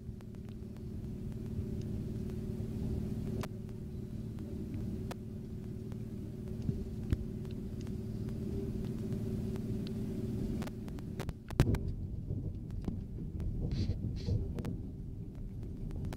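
Train running, heard as a steady low rumble with a hum and occasional sharp clicks. About eleven seconds in there is a loud knock, and the rumble turns rougher after it.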